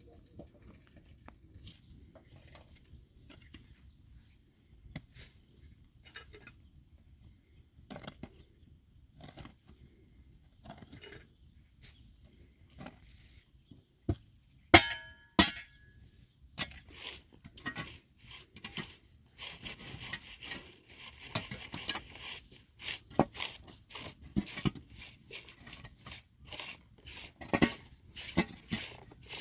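Hand work with small hard objects: sparse taps and clicks, then a sharp ringing metallic clink about 15 seconds in, after which the clicking and scraping grow rapid and busy.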